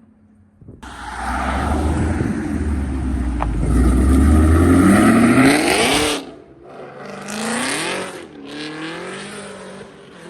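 Car engine accelerating hard: the revs climb steadily, drop sharply at a gear change about six seconds in, climb briefly again, then ease off to a lower, steadier running sound.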